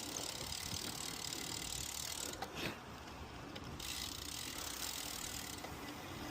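Bicycle freewheel hub clicking as the bike coasts, over a steady rush of riding noise, with one sharp knock about two and a half seconds in.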